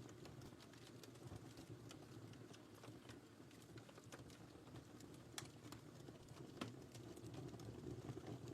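Wood fire burning in a fireplace: a faint, steady low rush with scattered small crackles and pops, a couple of sharper pops past the middle.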